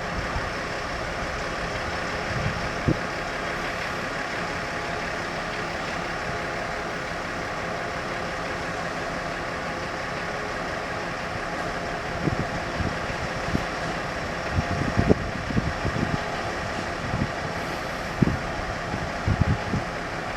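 Train standing at a station platform, idling with a steady hum. Gusts of wind buffet the microphone, more often in the second half.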